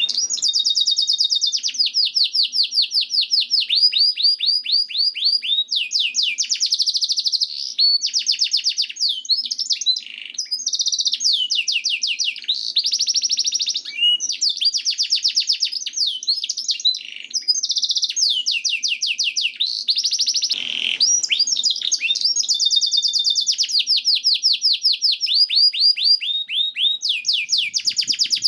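Domestic canary singing a long, near-continuous song of fast trills and rolls, rapid repeated high notes broken by a few brief pauses.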